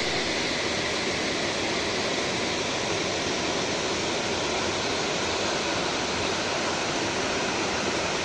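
Waterfall: an even, unbroken rush of falling water at a constant level.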